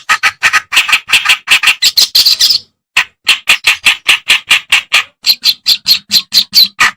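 Kerak basi (reed warbler) singing: a fast run of short, scratchy notes, about five a second, broken by a brief pause a little before halfway.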